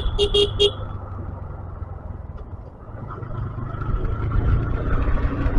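A 125cc motorcycle riding along, its engine and wind on the microphone making a steady low rumble; a horn gives three short beeps in the first second, and the sound dips about halfway before rising again.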